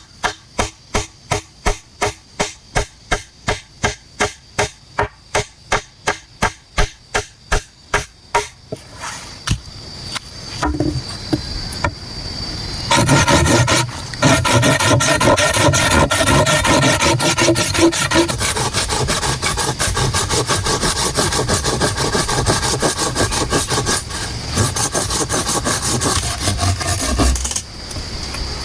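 A hand tool working bamboo: even scraping strokes about three a second for the first eight seconds, then from about 13 seconds a louder, denser rasping that stops shortly before the end.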